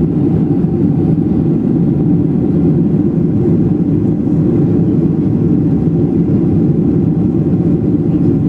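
Steady loud cabin noise of a Boeing 737-800 in flight shortly after takeoff: the CFM56 jet engines and rushing air, heard from inside the cabin as an even, low rumble.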